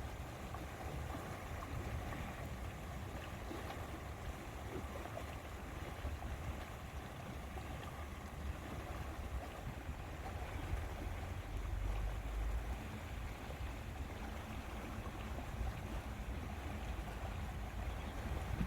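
Lakeside ambience: water lapping, with a steady low rumble of wind.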